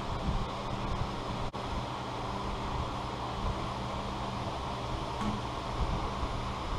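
Steady low mechanical hum with an even background rush, like a fan or motor running in a workshop.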